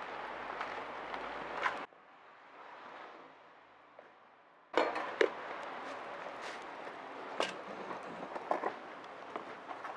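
Wood fire crackling with sharp pops. About two seconds in, the crackle drops to a soft hiss for nearly three seconds, then the crackling and popping return.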